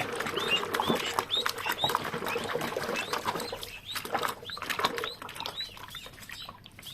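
Ducklings peeping: a rapid series of short, high chirps, several a second, with light splashing in water, growing quieter near the end.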